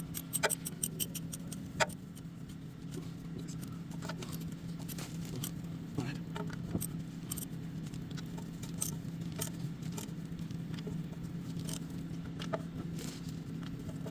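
Scattered light clicks and taps of hand tools and parts being handled during engine work, over a steady low hum.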